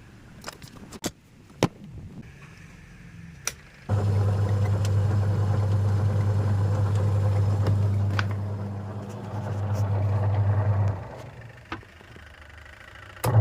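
Two-tub washing machine's wash motor running with a steady low hum for about seven seconds, then stopping. It starts again near the end. A few clicks and knocks come before it starts.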